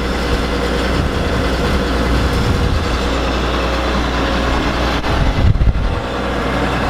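John Deere 9750 STS combine running steadily under harvesting load, its six-cylinder turbo diesel and threshing machinery giving a constant low hum, with wind buffeting the microphone.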